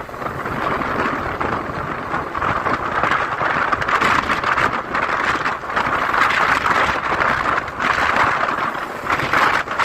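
Wind rushing over the microphone of a moving vehicle, mixed with road noise, swelling and easing every second or two.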